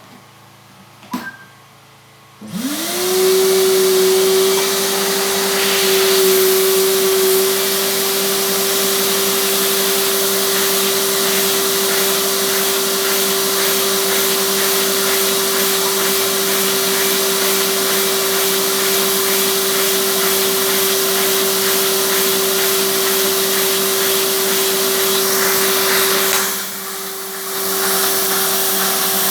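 A vacuum cleaner motor switches on about two and a half seconds in, spinning up quickly to a loud, steady whine with a rushing of air; it is the air source driving a Lego vacuum engine. Near the end the sound dips for about a second, then returns to full.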